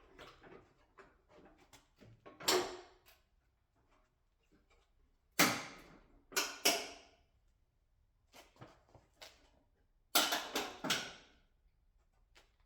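Several loud scraping clatters, each about half a second to a second long, with small clicks and taps between: the front fender of an Audi SQ5 being worked loose from its mounts.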